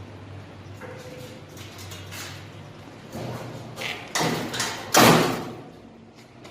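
A few knocks and thuds, the loudest about five seconds in, over a faint low hum.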